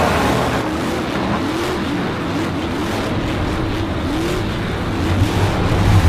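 Racing car engine sound effect: engines revving up and down over and over, with a louder burst near the end.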